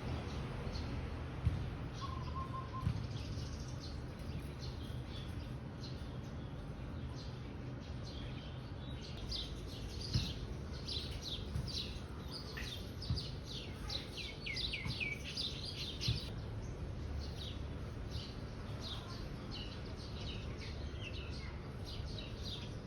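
Small birds chirping: many short, high chirps that sweep downward, coming thickest in a rapid run through the middle, over a steady low rumble with a few soft knocks.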